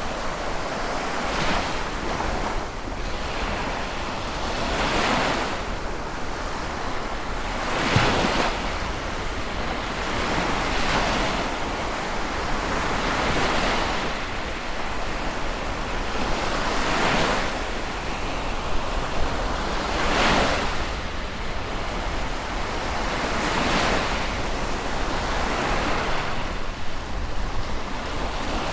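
Sea waves breaking and washing in, a fresh surge of surf every three seconds or so, over a steady rush of water.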